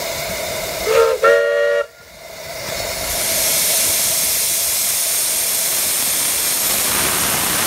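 Miniature steam locomotive whistle giving two short blasts, the second a chord of several tones, over steady steam hiss. The hiss then dies away briefly and builds back up, holding steady.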